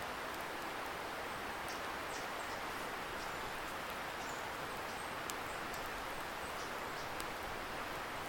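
Steady rushing of a distant river, heard as an even hiss, with faint small crackles from a wood campfire every second or two.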